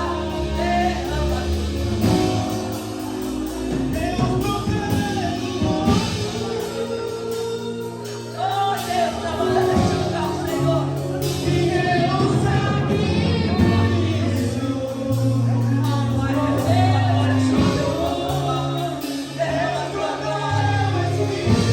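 Worship music with singing, over sustained keyboard chords and a moving bass line.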